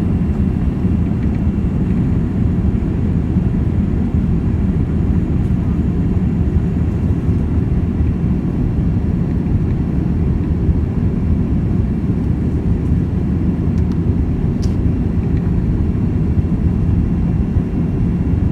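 Steady low rumble of cabin noise aboard a Boeing 787 airliner, with one brief click about fifteen seconds in.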